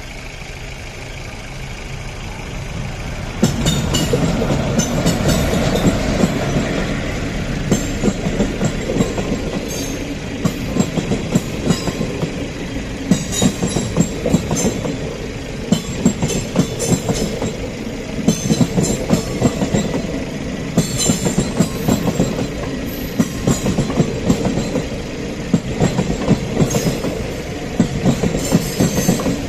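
Indian Railways train running along the track, a steady rumble with repeated sharp clacks of wheels over rail joints. It grows louder over the first few seconds and jumps up about three and a half seconds in.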